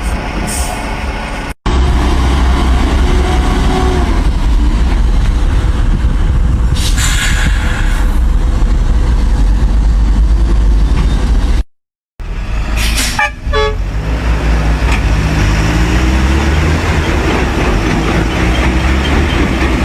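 Heavy truck engine running under load with a deep, steady rumble. The sound is cut off abruptly twice, briefly about a second and a half in and for about half a second near twelve seconds. A rising engine note comes in the last few seconds.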